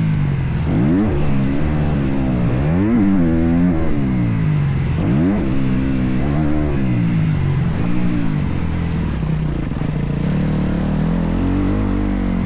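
Motocross bike engine revving hard and backing off as it is ridden round the track. The pitch climbs and drops sharply several times in the first half, then runs steadier.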